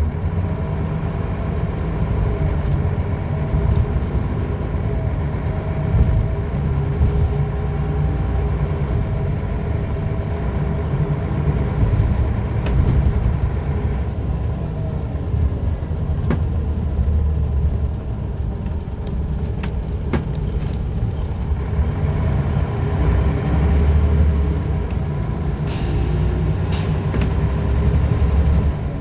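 Scania L94UB single-deck bus running, its engine steady with a wavering whine, likely from the ZF automatic gearbox. Several sharp rattles and knocks come about halfway through, and a short hiss of air near the end, typical of the air brakes or air system.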